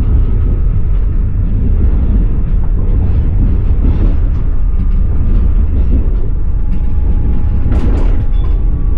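Passenger train carriage running on the rails, heard from inside: a steady, loud low rumble of wheels and bogies, with a few sharper clacks of the wheels about eight seconds in.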